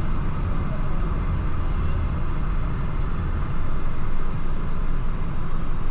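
Steady road and engine rumble heard from inside a moving vehicle's cabin, a low drone with a hiss of tyre and wind noise above it.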